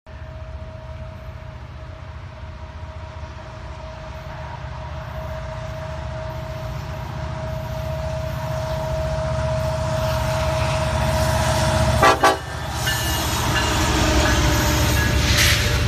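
Diesel freight train approaching, its horn held on one steady note while the low rumble of the locomotives grows louder. About twelve seconds in there is a short, very loud burst as the train comes close, and the horn note then carries on more faintly.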